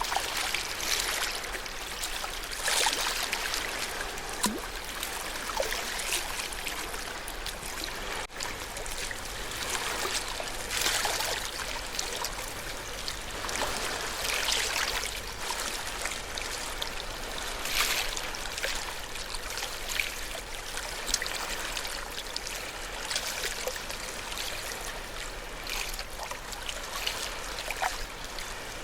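Ocean waves washing onto the shore: a continuous wash of water that swells with each wave every three to four seconds.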